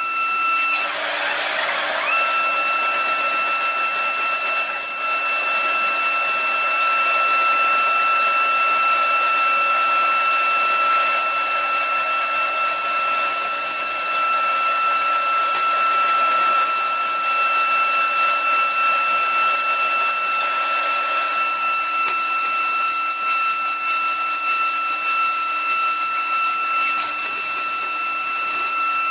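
A machine running steadily: a constant high-pitched whine over a hiss, with a brief wavering and small rise in pitch about two seconds in before it settles.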